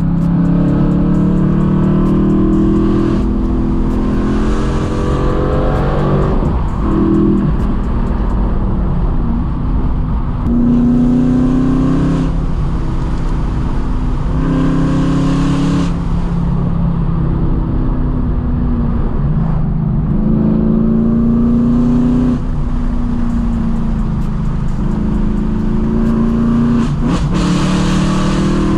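Straight-piped BMW E92 M3's 4.0-litre V8 being driven hard. The revs climb and fall again and again as the car pulls through the gears and lifts off between pulls.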